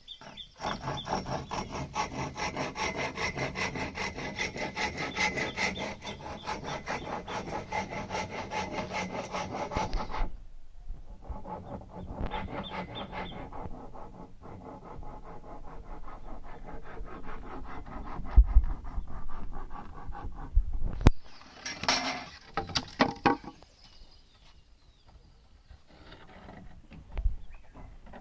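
Rhythmic rasping scrape of fast, regular strokes for about ten seconds, then quieter, broken scraping with a few sharp knocks in the latter half.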